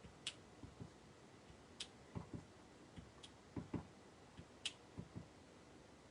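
Faint, irregular soft taps and light clicks of a clear acrylic stamp block being tapped on an ink pad and pressed onto cardstock, with a few sharper thin ticks among them.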